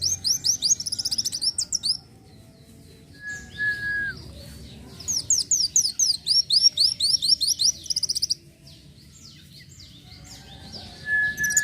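Brown-throated sunbird (kolibri wulung) singing: two long runs of rapid, sharp, high chirps, each note sliding down in pitch. Between the runs comes a single held whistle that drops at its end, about three seconds in.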